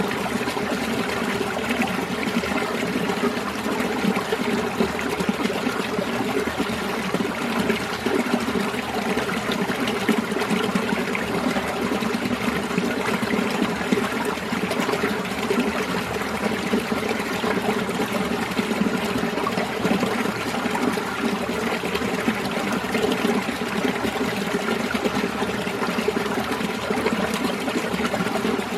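Winter mountain valley stream running, a steady, unbroken rush and trickle of flowing water.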